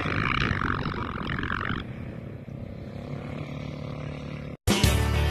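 Off-road vehicle engines running, dropping to a lower level about two seconds in. The sound cuts out near the end and music with a steady beat starts abruptly.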